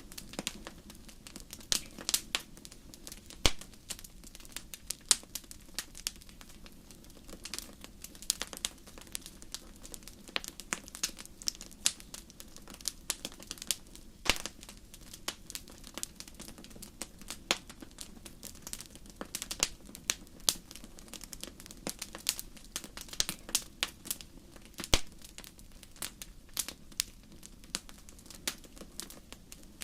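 Wood fire in a fireplace crackling: many sharp, irregular pops and snaps over a low steady rumble of the flames.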